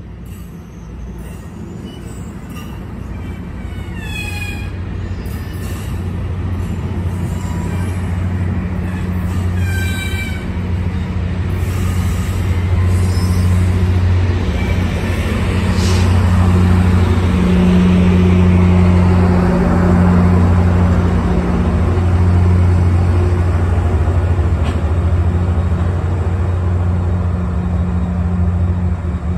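MARC commuter train rolling past, cars' steel wheels running on the rails with a few short high squeals in the first ten seconds. The MP36PH-3C diesel locomotive pushing at the rear approaches, its EMD V16 two-stroke diesel engine drone growing louder through the first half and staying loud.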